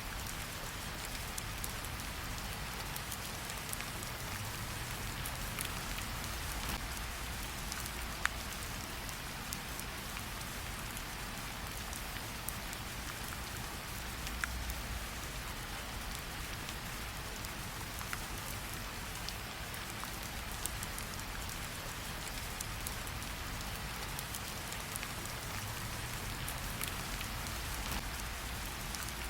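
Steady rain pattering, mixed with the crackle of a campfire: scattered sharp pops over a low rumble, the loudest pop about eight seconds in.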